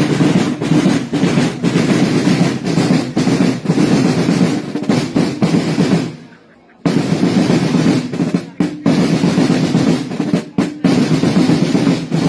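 Massed snare drums of a festival drum corps playing fast, continuous rolls. The sound fades out about six seconds in and cuts back in abruptly a moment later.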